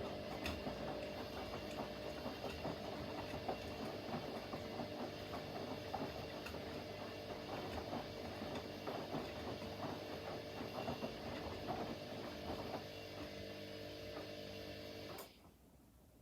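Front-loading washing machine running mid-cycle: a steady motor hum with rattling and whirring from the drum. It stops abruptly about 15 seconds in.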